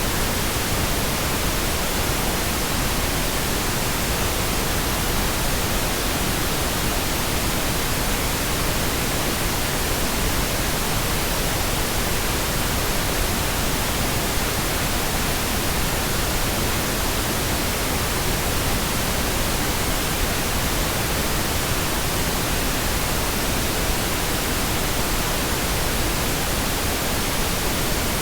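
Steady pink noise: an even, unchanging hiss spread across the whole range from low to high, without breaks or events.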